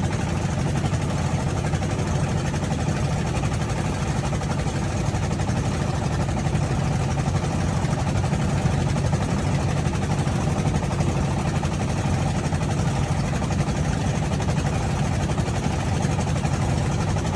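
Boat engine running steadily at sea with a constant low drone.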